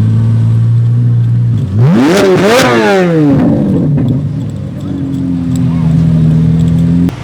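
A car engine running steadily, then revved hard about two seconds in, its pitch climbing in two quick peaks and falling away before it settles back to a steady run. The sound cuts off suddenly near the end.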